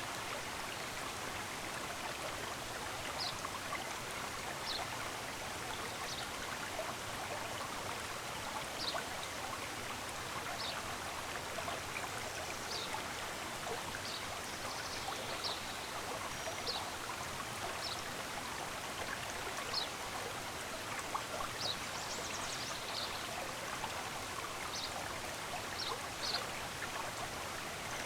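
Stream running steadily, with short high bird chirps every second or two over the water, coming more often in the second half.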